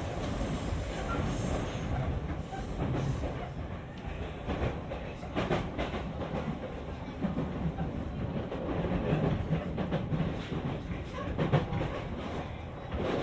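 Running sound inside an E231-series electric commuter train's motor car (MoHa E231): steady wheel-on-rail rumble with scattered clacks over rail joints, a cluster of them about five seconds in.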